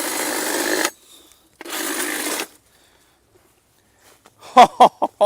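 Handheld power cutting tool run in two short bursts of about a second each, cutting through brush.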